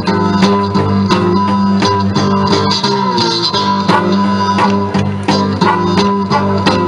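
Live blues played on guitars, with a steady run of picked notes over sustained low bass notes.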